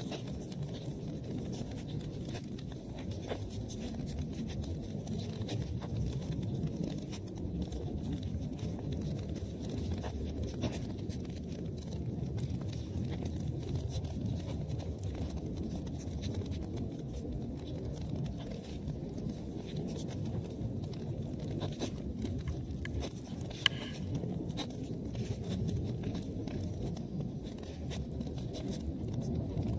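Wood fire crackling in a fireplace: a steady low rumble of burning with many small crackles, and one sharper, louder pop about three-quarters of the way through.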